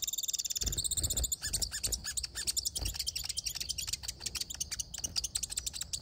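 Small birds chirping: a rapid run of high, thin chirps, many a second. A few lower arched notes come between about one and two seconds in.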